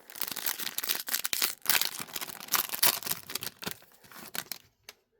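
Plastic foil wrapper of a trading card pack torn open and crinkled, a dense run of crackling that stops shortly before the end.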